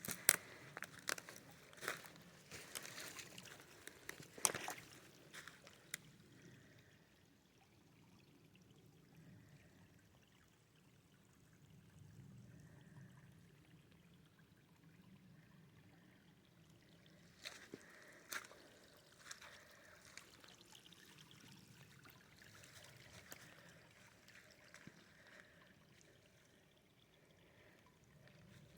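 Faint trickling flow of water running toward a pond inlet, with clusters of sharp clicks and splashes in the first six seconds and again about eighteen seconds in.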